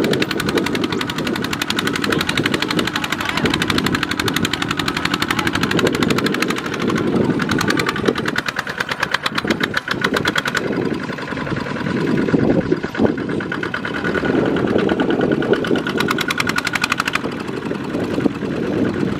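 Kubota single-cylinder diesel walking-tractor engine running under load, with a rapid, even exhaust beat.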